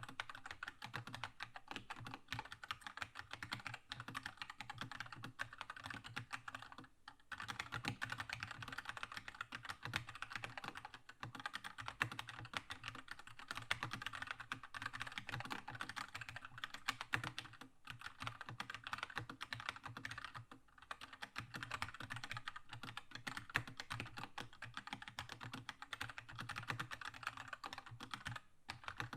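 Fast continuous typing on a Keychron K2 mechanical keyboard with linear red switches, a dense stream of key clacks with a few brief pauses.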